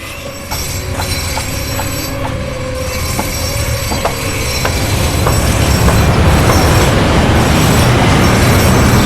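Rumbling noise with sharp, even clicks about twice a second, the rumble growing steadily louder and filling out from about five seconds in.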